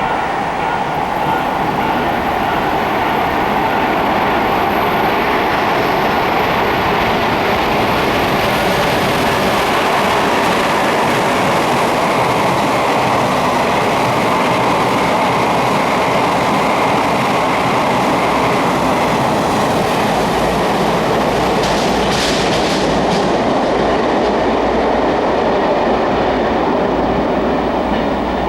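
A train running through a tunnel station: a loud, steady roar of wheels on rail and rushing air, with some rail clatter, echoing in the tunnel. The low rumble grows heavier about two-thirds of the way through.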